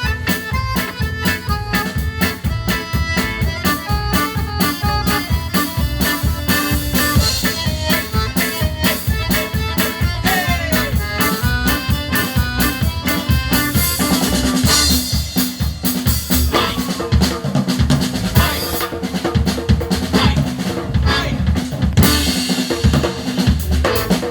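Live band instrumental break: an accordion solo of fast, stepping note runs over a steady drum-kit beat. About fourteen seconds in the accordion lines thin out and the drums and cymbals come to the front.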